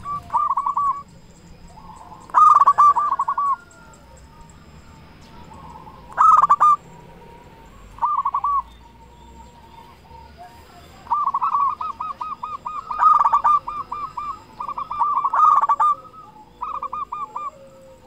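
Zebra dove (perkutut) cooing: bursts of quick, rolling notes repeated every few seconds, with a longer run of phrases in the second half.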